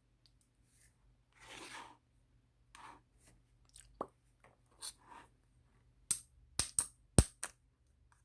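Small objects being handled: a soft rustle, scattered light clicks, then a quick run of four or five sharp clicks or taps near the end.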